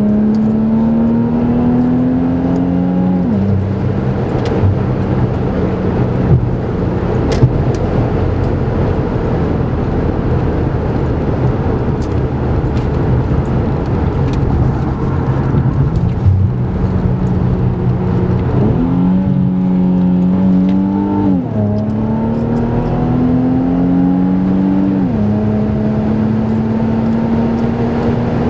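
Infiniti Q50 3.0t twin-turbo V6 with a Stillen exhaust, accelerating through the gears. The engine's pitch climbs and then drops at each upshift, once about three seconds in and several times in the last third. Between the pulls it cruises with steady road noise.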